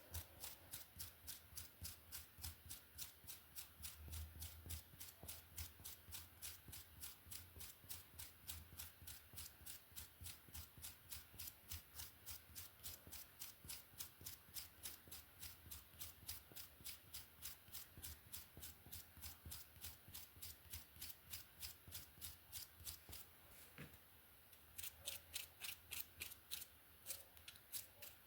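Hairbrush strokes through hair: a faint, quick, even rhythm of about three brushing strokes a second, with a brief pause about three-quarters of the way through.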